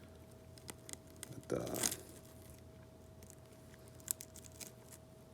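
Faint handling noises of small repair tools on a tablet: scattered light clicks, a brief louder scrape about a second and a half in, and a sharp tick about four seconds in, over a faint steady hum.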